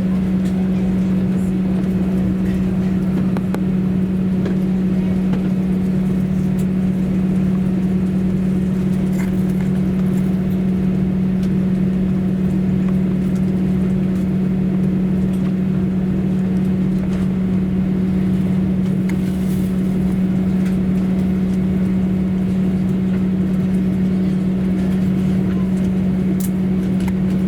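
Airbus A321 cabin noise heard from the rear of the cabin with the jet engines running before take-off: a steady drone of one low hum over a rushing noise, with no rise in pitch or level.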